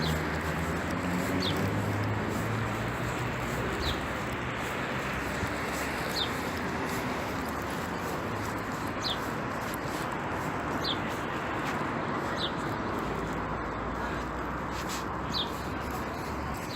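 Steady rain hissing, with a bird giving a short high chirp about every two seconds.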